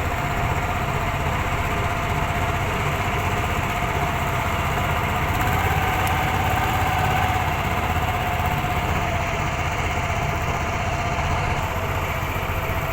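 A small engine running steadily, its pitch rising a little partway through and then settling back.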